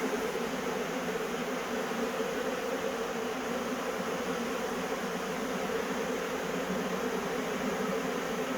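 A honey bee swarm buzzing en masse: a steady, unbroken hum of many wings.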